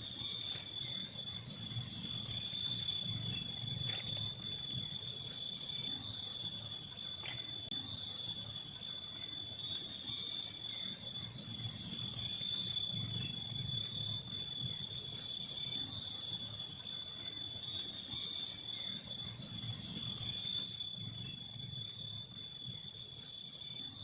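A steady high-pitched insect chorus, one thin unbroken tone with fainter overtones above it, over a low uneven rumble that swells and fades every few seconds.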